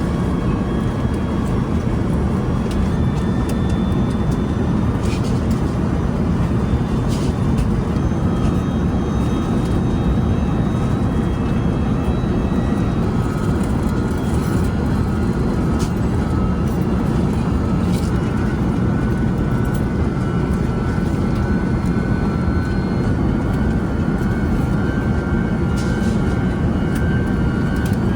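Steady roar inside the cabin of an Airbus A380-800 airliner, from its engines and the airflow, with a few faint high whining tones above it.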